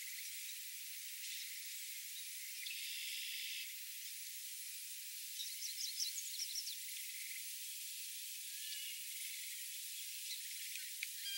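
Evening outdoor ambience: a steady high hiss, with a short buzzy trill about three seconds in and a flurry of short, high chirps around the middle.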